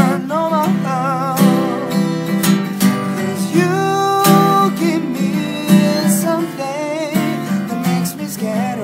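A man singing wordless held notes with vibrato over a strummed acoustic guitar.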